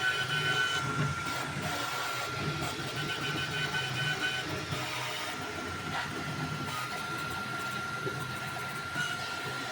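Creality Ender 3 V3 3D printer running a print: the stepper motors give a steady whine over a low hum, with a higher tone that drops out and comes back as the moves change.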